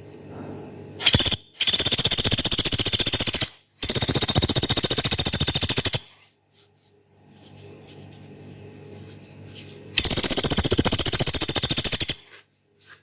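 Pelatuk beras woodpecker giving loud, harsh, rapid rattling calls, the long harsh calls bird-keepers call 'nembak panjang kasar'. A short rattle comes about a second in, then two long rattles of about two seconds each back to back, and another near the end. A faint steady background hiss lies between them.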